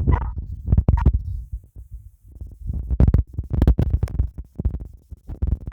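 Low rumbling thuds and rubbing right on the microphone, uneven and repeated, with a few sharp clicks in the middle.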